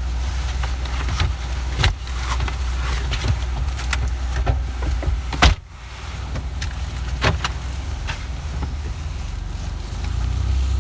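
Car engine running, heard from inside the cabin as a steady low hum, with a few sharp knocks and clicks; the loudest knock comes about halfway through.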